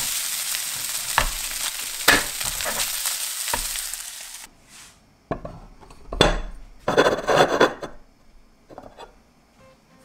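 Shrimp fried rice sizzling in a pan while being stirred, the spatula knocking against the pan three times. About four and a half seconds in the sizzling cuts off, and a ceramic bowl clinks and scrapes a few times against a plate as the rice is unmoulded.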